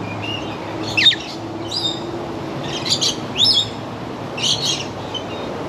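Parrots in an aviary squawking and chirping: about six short, sharp calls one after another, some sweeping quickly in pitch.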